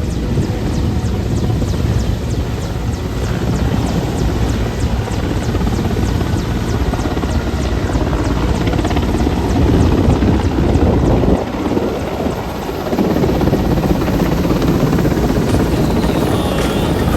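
Helicopter rotor running with a fast, regular chop of the blades over a heavy turbine rumble.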